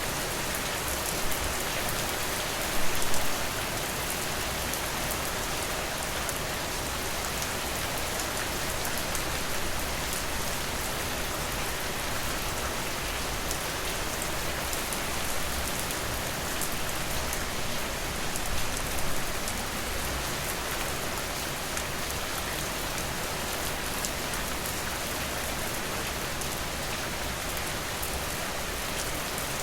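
Steady rainfall: an even hiss of many close drops, with a few brief louder spatters about three seconds in and again a little past the middle.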